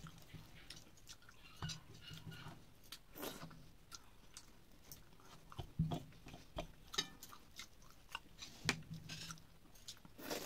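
Close-up eating sounds of a person chewing soft khichdi and broccoli curry eaten by hand: wet chewing with scattered irregular lip smacks and clicks, a couple of sharper smacks about six and nine seconds in.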